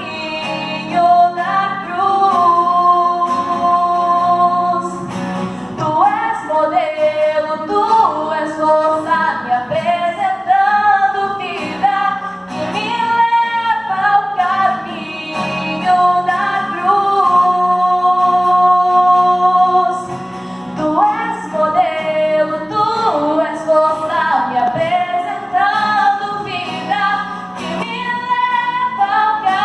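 Female voice singing a melody, with held notes and glides, over a steady low accompaniment.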